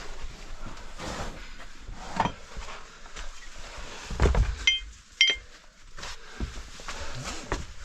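Cavers moving through a rocky cave passage: scuffs, scrapes and knocks of bodies and gear against rock, with two sharp clinks a little under five seconds in and about half a second later.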